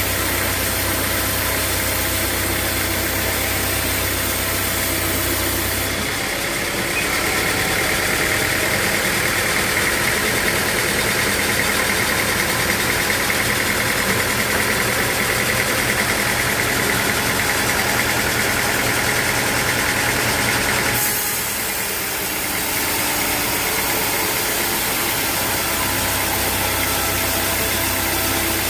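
Sawmill machinery running with a steady engine hum throughout. From about six seconds in until about twenty-one seconds, a saw cuts through a teak log, adding a louder, higher whine over the hum.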